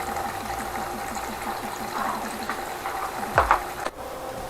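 Small motor-driven water mixer running, its blades churning and bubbling the water over a steady motor hum. A couple of sharp clicks about three and a half seconds in, then the sound breaks off abruptly.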